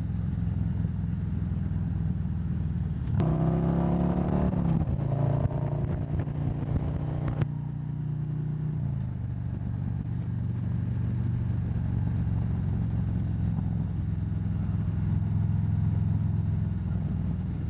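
Harley-Davidson Road Glide's V-twin engine running at cruising speed with wind noise, heard from the rider's microphone with the helmet visor down. Louder for a few seconds about three seconds in, and the engine's pitch drops a little about nine seconds in.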